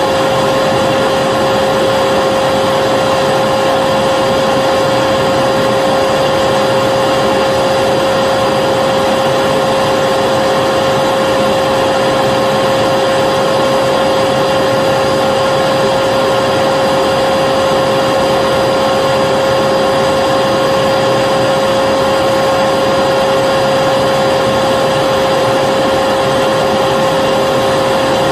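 Vacuum cleaner motor running steadily, a constant airy rush with a steady whine on top.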